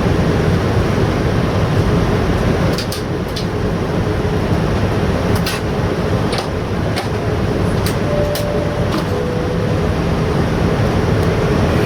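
Steady airliner cabin noise inside a Boeing 787, the hum of ventilation and engines, with scattered light clicks and knocks. A faint two-note falling tone sounds about two-thirds of the way through.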